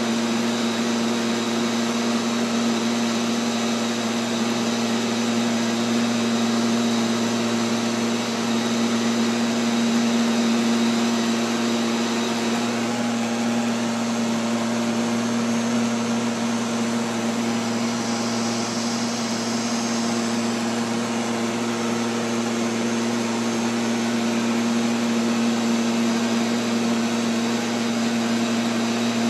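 Neato XV-11 robotic vacuum running, heard from a camera mounted on it: a steady motor hum with a strong low tone and a hiss of airflow.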